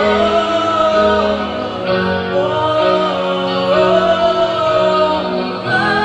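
Live rock band playing, with singing in long held notes.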